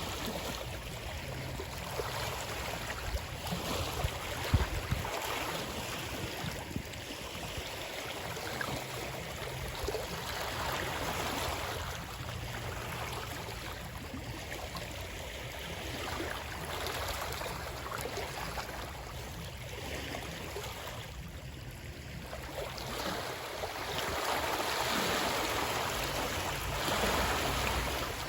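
Running water: a steady rush of flowing or lapping water that rises and falls gently, with a few sharper splashes about four seconds in and a louder swell near the end.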